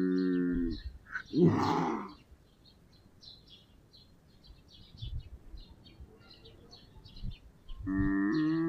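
Eurasian lynx giving one short, loud yowl that falls in pitch, about a second and a half in, over faint continuous high chirping.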